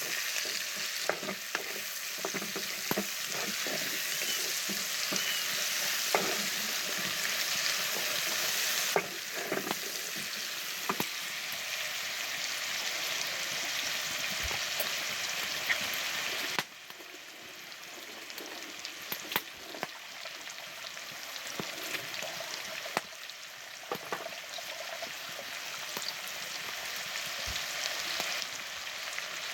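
Chopped onion and garlic sizzling as they fry in sausage fat in a pot, with scattered clicks and scrapes of a spoon stirring against the pot. Partway through, the sizzle suddenly gets quieter.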